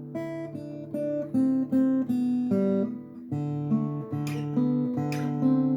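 Acoustic guitar playing the slow instrumental intro of a Korean ballad, plucked melody notes over strummed chords, with no singing.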